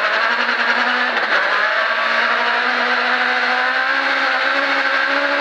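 Rally car's engine pulling hard under full acceleration, heard from inside the cabin. It dips briefly at a gear change about a second in, then the revs climb slowly.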